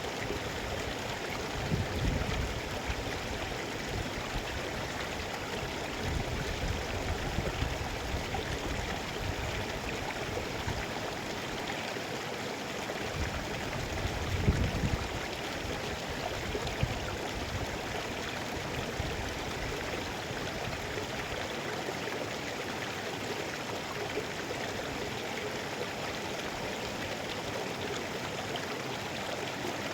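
Mountain river flowing, a steady, even rush of water, with brief low rumbles about two seconds in and again around fourteen seconds in.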